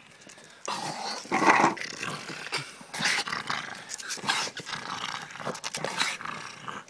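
A dog growling in uneven bursts, loudest about a second and a half in.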